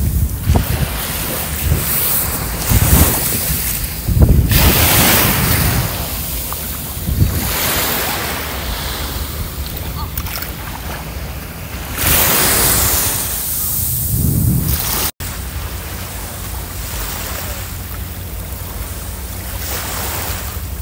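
Sea waves washing onto a beach, swelling and falling back in surges, with wind buffeting the microphone.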